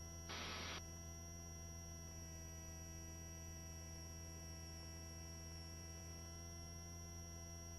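Steady electrical hum and whine on a helicopter intercom feed, with no cabin or rotor noise coming through. About half a second in there is a brief burst of hiss, typical of a voice-activated headset microphone opening for a moment.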